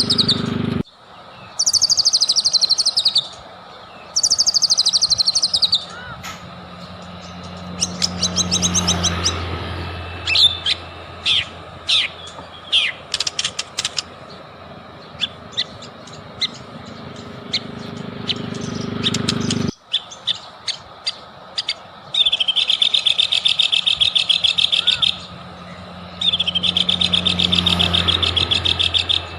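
White-rumped shama (murai batu) singing loud, varied phrases: fast descending high trills, a run of sharp separate chips, and a rapid buzzy rattle held for a few seconds near the end, over a low steady hum.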